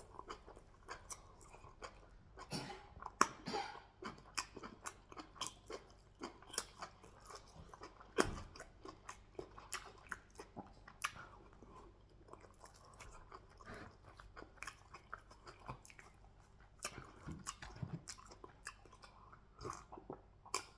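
Close-miked chewing and biting of a person eating fufu with goat meat in peanut soup: a run of irregular short clicks and mouth sounds.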